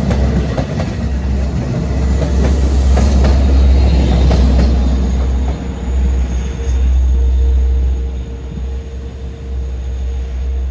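Long Island Rail Road commuter train passing through the station: a steady heavy rumble with a constant hum, and clicks of the wheels over the rails in the first few seconds. The sound eases after about eight seconds.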